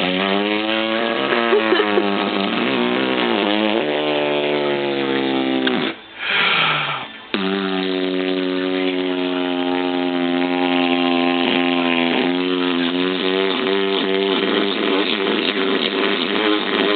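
Long, drawn-out, howl-like vocal sound held for several seconds at a time, its pitch wavering and gliding. It breaks off about six seconds in with a short breathy hiss, then resumes and holds steady.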